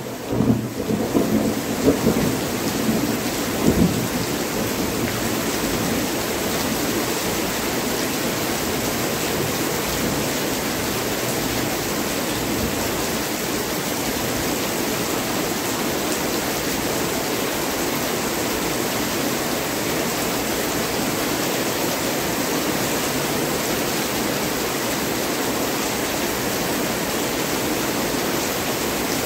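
Heavy rain pouring down steadily in a thunderstorm. A deep thunder rumble dies away over the first few seconds, with a short sharp peak about four seconds in, and the even rush of the downpour carries on after it.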